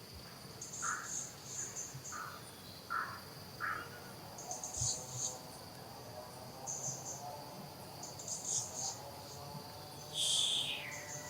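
Insects trilling: a steady high-pitched drone with repeated louder bursts of chirping above it. A few short calls come in the first few seconds, and a louder call falling in pitch sounds near the end.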